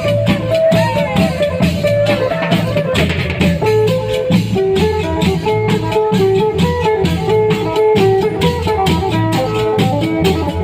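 Thai klong yao long-drum band music: a quick stepping melody over steady drumming, with evenly spaced percussion strokes keeping the beat.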